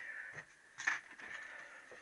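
Light metal scraping and handling with one sharp metallic click about a second in, from hand work on a connecting rod's small-end bush as it is reamed and checked for fit.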